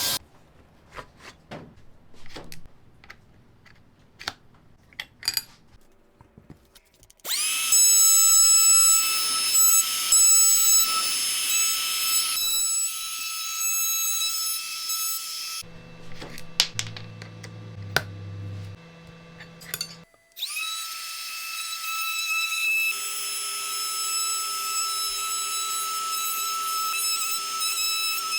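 Scattered small clicks and taps of handwork, then an electric power tool starts about seven seconds in and runs at a steady high whine for about eight seconds. It stops, and a few low steady notes sound. About twenty seconds in the tool starts again and runs steadily.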